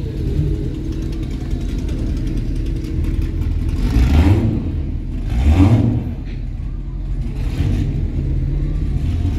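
Car engines running with a steady low rumble, and two louder rising-and-falling surges about four and five and a half seconds in, as a car revs or pulls away.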